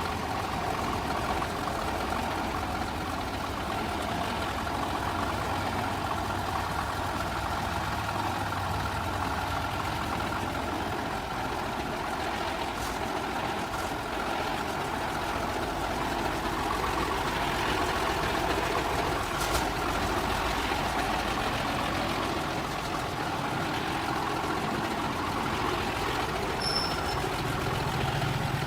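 Truck running steadily, with a continuous even drone of engine and road noise and a few faint clicks.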